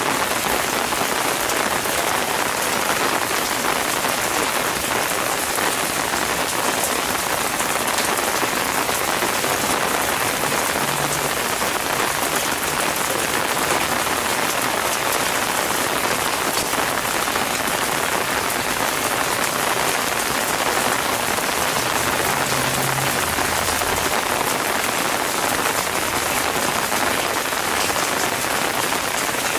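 Steady heavy rain falling on surfaces, a constant hiss dotted with drop patter.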